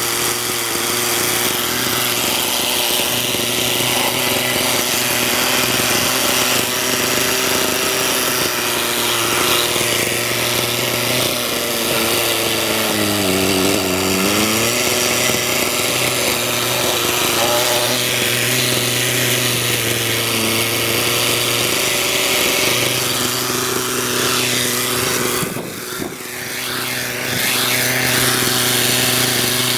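Hirobo glow-engine RC helicopter running in flight, a steady engine-and-rotor drone. Its pitch sags and recovers once about halfway through, and the sound briefly dips near the end.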